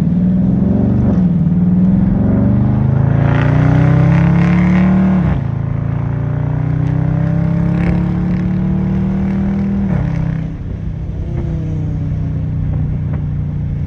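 Dodge Charger accelerating hard from a pull-away: the engine note climbs for about five seconds, drops suddenly at the shift into second gear, climbs again for about five more seconds, then eases off to a steady cruise. Wind rushes through the open windows.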